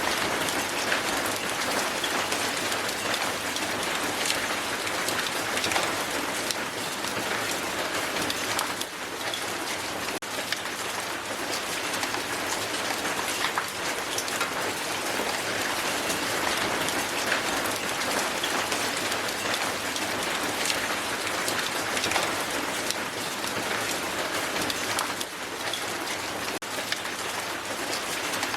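Hail falling on the ground in a steady, dense patter of many small sharp clicks.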